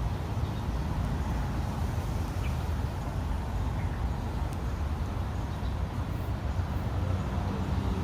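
Steady low outdoor background rumble with no distinct events, only a couple of faint short chirps.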